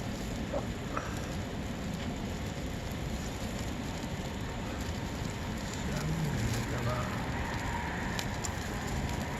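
Wood campfire burning with a steady hiss and a few scattered crackles and pops.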